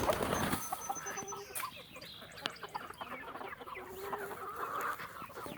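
Chickens clucking, several short calls overlapping one another, after a brief rush of noise at the very start.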